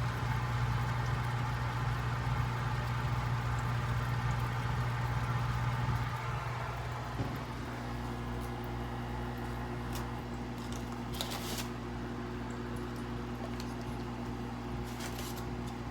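A steady machine hum, with its tone shifting about seven seconds in, and two brief noisy rustles in the second half.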